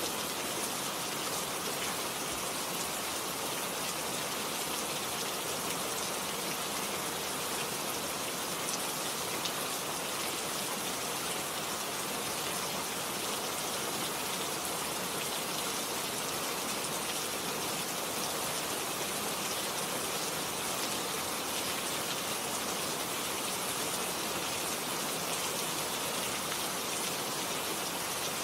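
Steady rain falling on leaves and garden surfaces, an even hiss of many drops with no let-up.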